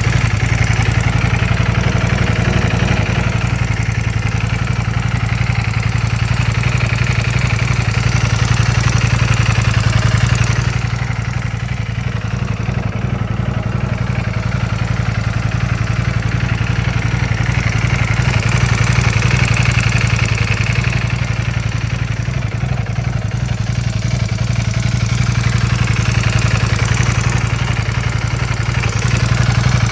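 Ducati Panigale V4 engine idling steadily, with a steady low drone and a higher rasp over it that fades for a few seconds and returns twice. The owner finds the sound strange and cannot tell whether it means something is wrong.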